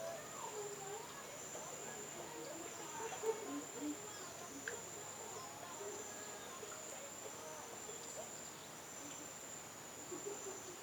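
Insects, crickets or cicadas, keeping up a steady, unbroken high-pitched drone in the mangrove.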